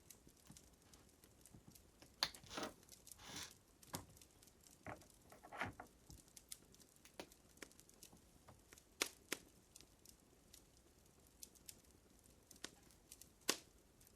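Fire crackling: irregular sharp pops and snaps, with a few longer crackling bursts in the first few seconds. The loudest pops come about two seconds in, around nine seconds and near the end.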